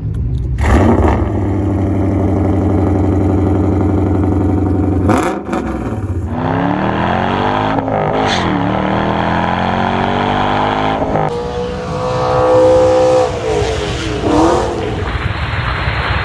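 Lexus RC F's 5.0-litre V8 exhaust running at a steady idle, then revved several times, the pitch rising and dropping back with each blip.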